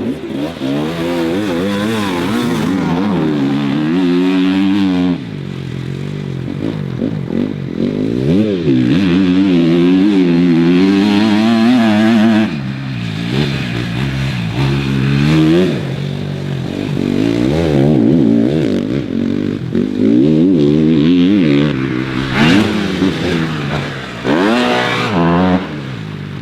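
Off-road dirt bike engines revving while riding, the engine note climbing and dropping repeatedly with the throttle and gear changes. There are quicker, sharper throttle blips near the end.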